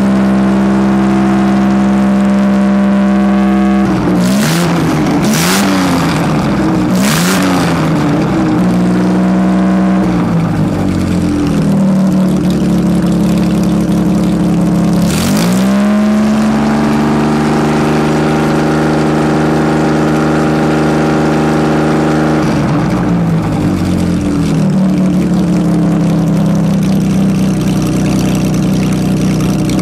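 Freshly rebuilt 1956 Jaguar XK140 twin-cam straight-six running on a bench test stand. It runs steadily, is revved up and down several times from about four seconds in, then is revved quickly about fifteen seconds in and held high for several seconds before dropping back to a steady idle.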